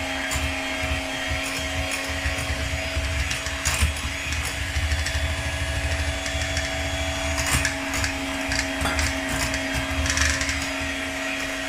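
Electric mixer running steadily as it beats a cream cheese mixture in a bowl, with a constant motor hum and a few sharp knocks from the beaters against the bowl.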